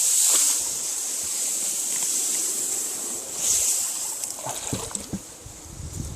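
A small boat forcing its way through water plants: a swishing hiss that swells twice, then a few light knocks near the end.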